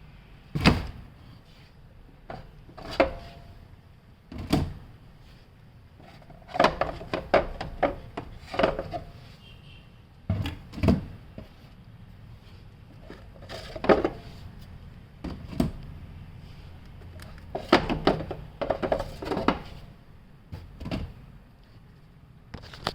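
Irregular knocks, clicks and clatters of hard parts and tools being handled and set down, a dozen or so sharp hits, some in quick runs of several.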